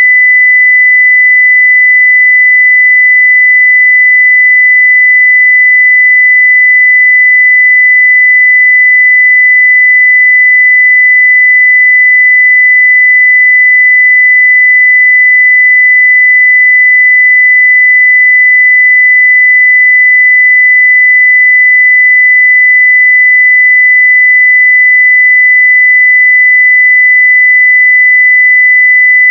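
Continuous 2 kHz sine-wave test tone at full level, one pure unchanging pitch.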